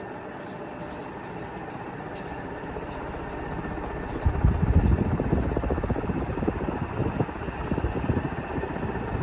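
Envirofan Goldline industrial ceiling fan running on high, a steady hum and whoosh of its blades. The fan is running fast despite bearings that were nearly seized and have only been heavily lubricated. About four seconds in it grows louder, with gusty rumbling as the fan's draft buffets the microphone.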